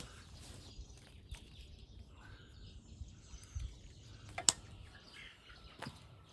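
Quiet outdoor background with faint bird chirps and scattered small clicks; one sharp click stands out about four and a half seconds in.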